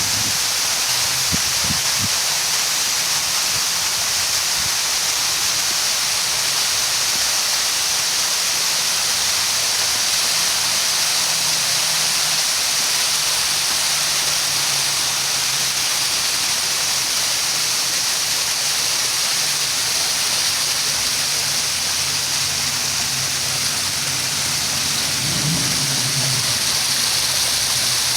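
Steady rush of water falling and splashing from a park fountain and waterfalls, a constant hiss with no break.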